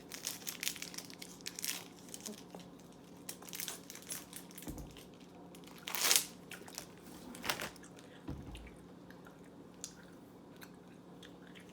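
Packaging crinkling and crackling as it is handled and opened, in a string of irregular short crackles with a few louder ones partway through. A faint steady hum runs underneath.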